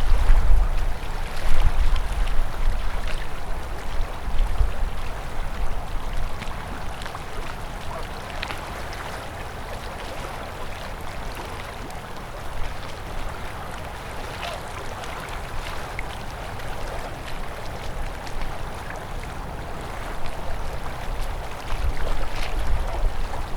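River water flowing over rocks, a steady rushing and splashing. A low rumble rises under it near the start and again near the end.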